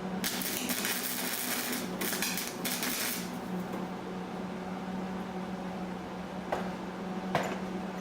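Metalwork on a steel weight-bench frame: three short bursts of crackling hiss in the first three seconds, over a steady low hum, then two sharp metallic clicks near the end.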